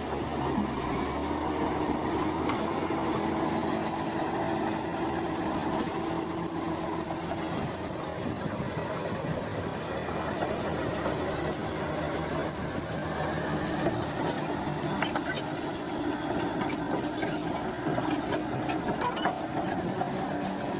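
Crawler bulldozer working: a steady diesel engine under a constant clatter of its steel tracks, with repeated high squeaks from the track links and rollers.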